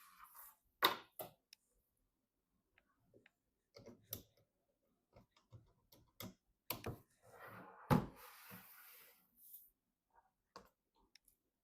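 Scattered clicks and knocks of hands handling computer parts during assembly, with the loudest knocks about one second in and about eight seconds in, and a brief rustle around the second one.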